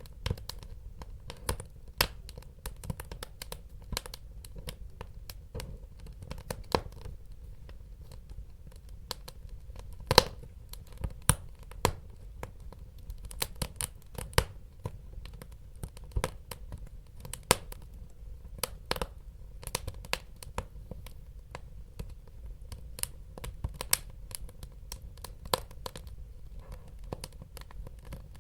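Wood fire crackling in a fireplace: irregular sharp pops and snaps, several louder ones about ten and eleven seconds in, over a steady low rumble of burning logs.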